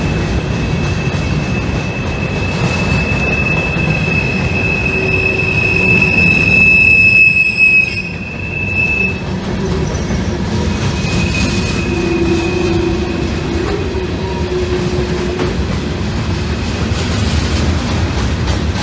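Freight cars of a CSX manifest train rolling past close by: a steady rumble and clatter of wheels on rail. Over it, a high, steady wheel squeal grows loudest about seven seconds in, stops near nine seconds, and comes back faintly a little later.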